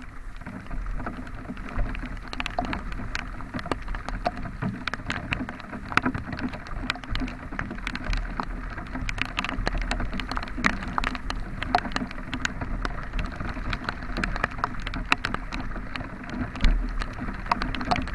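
Dense patter of raindrops ticking over the steady running noise of a vehicle driving in heavy rain, with low rumbles from the road.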